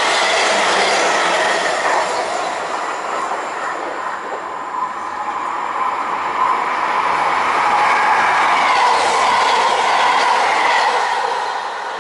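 Non-stop trains passing at speed on electrified track. A white suburban electric multiple unit rushes through with its wheels clattering over the rail joints, and its noise falls away after a couple of seconds. A second train then passes, its wheel-on-rail roar and hum building to a peak about eight to eleven seconds in before fading as it runs off.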